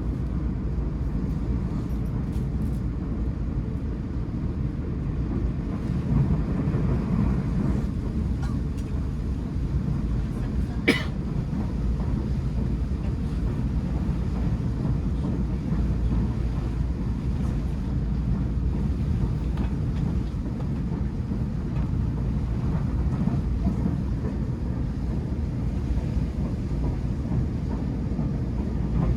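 Steady low rumble of a Tobu 500 series Revaty train running, with a single sharp click about eleven seconds in.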